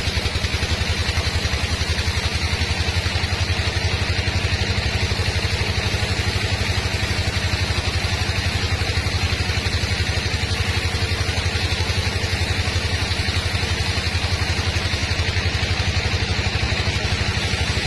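Sawmill machinery running steadily: an engine-like drone with a fast, even pulse that does not change.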